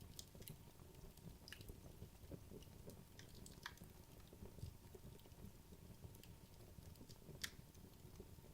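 Wood logs burning in a fireplace: faint, sparse crackles and pops over a low, soft flame rustle, with one sharper pop about seven and a half seconds in.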